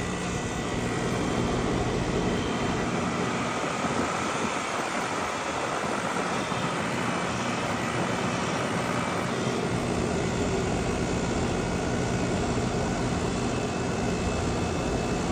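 Carrier heat pump running: a steady hum and whoosh of the compressor and fan. The compressor runs but has lost compression, so the system is not heating.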